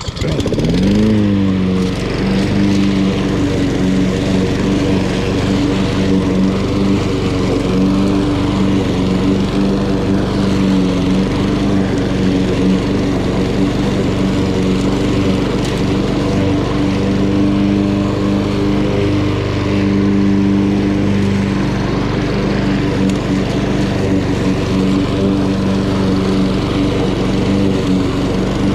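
Honda GCV170 single-cylinder engine on a walk-behind lawn mower starting up, its pitch rising as it comes up to speed in the first second or so, then running steadily while mowing grass.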